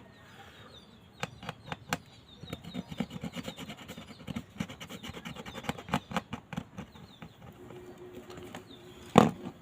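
An opener tool scraping old display adhesive off a smartphone's frame, making quick irregular scratchy strokes and clicks. A sharper tap comes near the end.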